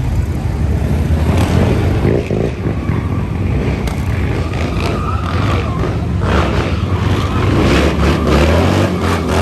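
Motocross dirt bike engine running and revving, its pitch rising about four seconds in.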